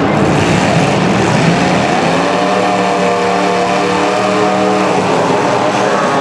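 Racing vehicle engines running hard under a steady wash of noise. About two seconds in, one engine's note rises, holds, and then drops away near the end as it goes by.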